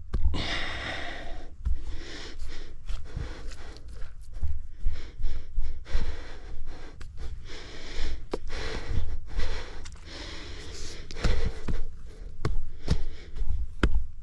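Shovel work in dirt: irregular knocks and thumps with scraping, hissing bursts as soil is scooped and packed.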